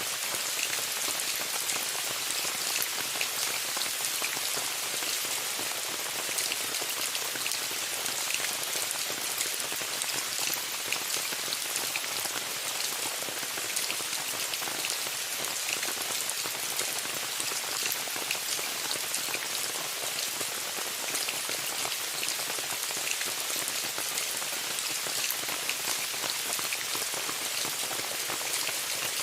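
Steady rain falling on a tent: a constant hiss with many small, sharp drop ticks.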